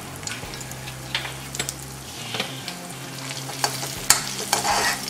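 Chopped ginger and green chillies sizzling in hot oil in a kadhai, with a metal spoon scraping and tapping against the pan as they are stirred. Several sharp taps of the spoon stand out, the loudest about four seconds in.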